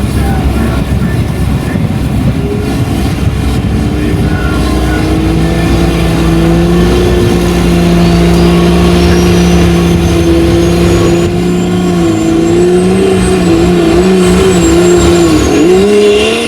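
Diesel pickup truck engine held at high revs under load in a truck pull, with a high turbo whistle rising in partway through. The engine pitch wavers in the last few seconds and dips sharply once near the end.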